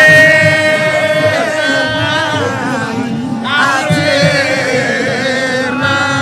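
A voice singing over music, holding two long wavering notes: one at the start, the other about four seconds in.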